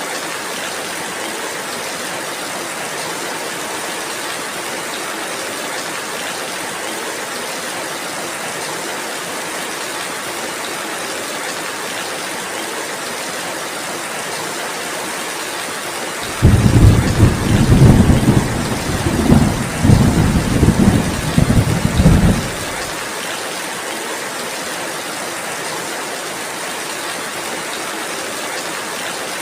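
Steady rainfall, with a deep rolling rumble of thunder that comes in suddenly about halfway through, swells in several pulses for about six seconds, then cuts off.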